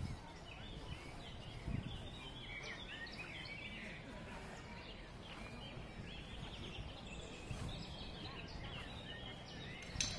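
Songbirds chirping and singing over a steady low rumble of outdoor background noise, with a sharp click near the end.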